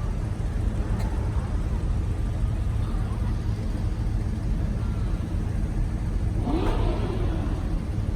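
Car engines running with a steady low rumble. About six and a half seconds in, a brief sound with a pitch that rises and falls stands out; it may be an engine revving or a voice.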